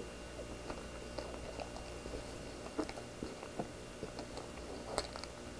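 A person chewing a mouthful of soft cream-filled bun with the mouth closed: quiet, soft chewing with scattered small wet clicks and smacks, a little louder about five seconds in.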